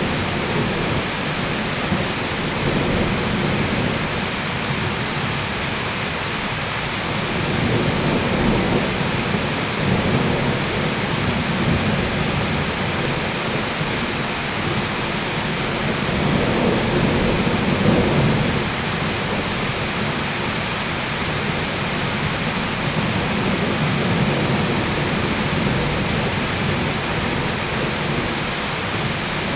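Steady heavy rain with low rolling thunder rumbling underneath, the rumble swelling louder a few times, most strongly about 8 and 17 seconds in.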